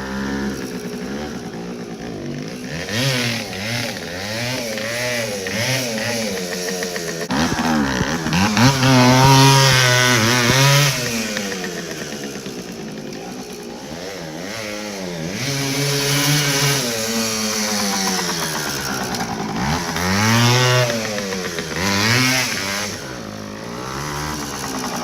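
Small two-stroke moped engine revved hard again and again, its buzzing pitch climbing and dropping many times, with the highest revs about a third of the way in and again near the end.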